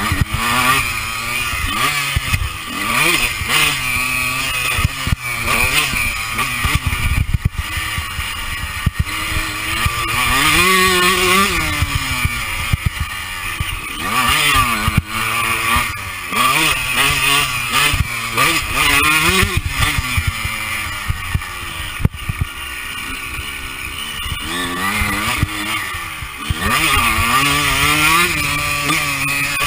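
Honda CR125's two-stroke single-cylinder engine ridden hard on a motocross track, its pitch repeatedly climbing and dropping as the rider accelerates, shifts and rolls off, with wind rumbling on the microphone.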